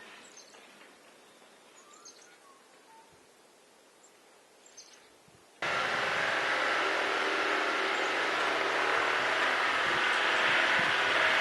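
Quiet outdoor air with a few faint bird chirps, then, a little past halfway, a tractor engine cuts in abruptly at full loudness and keeps running steadily.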